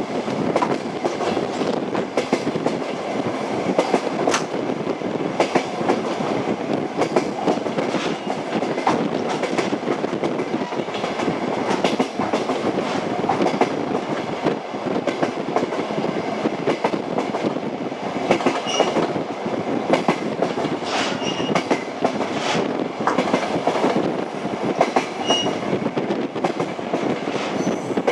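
Train wheels knocking over rail joints as the train runs steadily, a continuous rumble with irregular clicks. A few brief, faint high squeaks come in past the middle.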